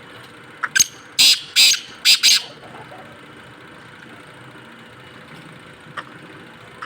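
Black francolin (black partridge) calling: one harsh, rasping phrase of about six loud notes, two short ones followed by four longer ones, over less than two seconds. A single faint short note comes near the end, over a steady low hum.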